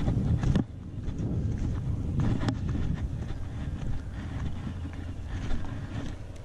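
Wind buffeting the camera microphone as an uneven low rumble, with a few light knocks.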